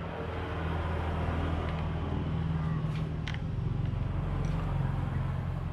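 Small petrol engine running steadily, its pitch rising slightly and getting a little louder through the middle, with a few light clicks.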